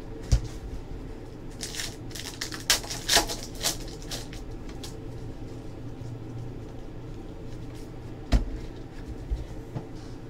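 Trading card packs and cards handled on a tabletop: a knock just after the start, a couple of seconds of crinkly rustling and sliding about two seconds in, and another sharp knock near the end.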